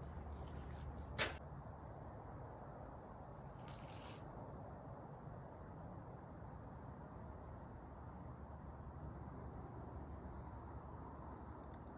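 Faint, steady chorus of crickets or other insects with a constant high-pitched trill, and one sharp click about a second in.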